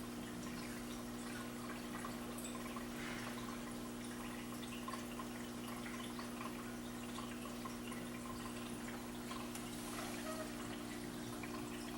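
Aquarium filter water trickling and splashing steadily into the fish tank, over a steady low hum.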